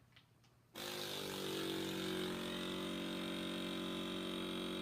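Handheld pistol-grip portable vacuum sealer switching on a little under a second in and running with a steady motor hum, pumping the air out of a resealable food bag.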